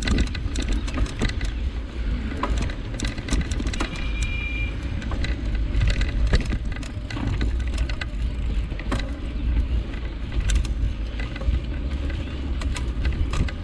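Riding a bike on a rough road: a steady low rumble of wind and rolling, with many sharp rattles and clicks from the bike. A short high ring sounds about four seconds in.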